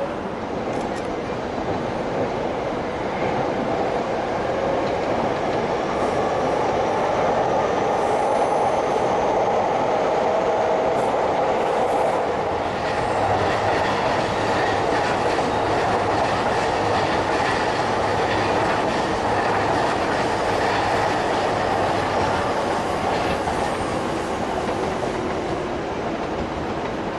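An electric train running past on the tracks, its wheels clacking over rail joints with a light squeal. It grows louder a few seconds in, holds, and eases off near the end.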